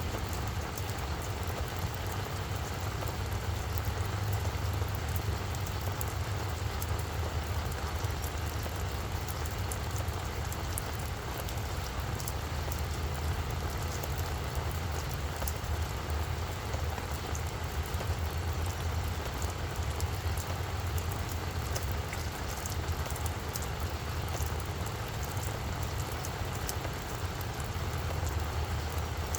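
Steady rain falling on a flower bed, with many fine drop ticks over an even hiss and a steady low rumble underneath.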